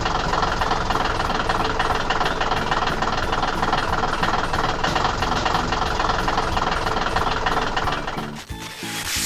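Heavy machine engine running steadily with a rattle, a construction-vehicle sound effect; it cuts off about eight seconds in and a short whoosh follows.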